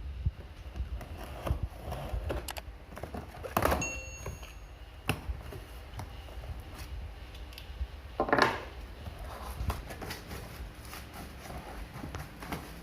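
Packaging and plastic vacuum-cleaner parts being handled: scattered clicks and light knocks, with two louder rustling scrapes about four and eight seconds in.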